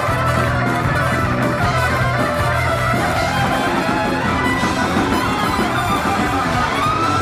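Live rock band playing an instrumental passage, with a lead guitar over bass and drums. Near the end a high note bends up and is held.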